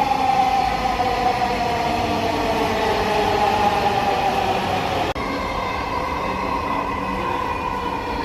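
Dhaka Metro Rail train running, its electric motor whine falling steadily in pitch as the train slows. About five seconds in the sound breaks off abruptly and a steadier train hum with a high whine follows.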